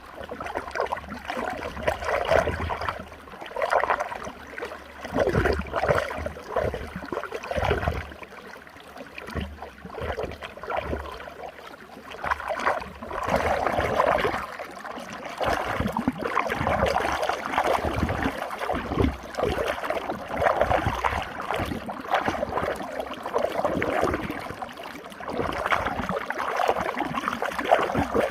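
Running water swirling in a whirlpool, a loud churning rush that swells and eases every second or two.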